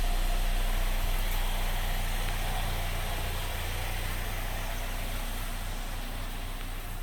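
2013 Chevy Equinox's 2.4 L inline-four engine idling steadily.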